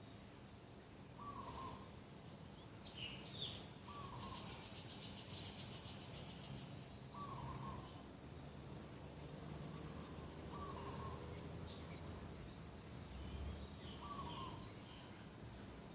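Birds calling in a garden: a short call repeats about every three seconds, with scattered higher chirps and a brief rapid high trill partway through, over faint background noise.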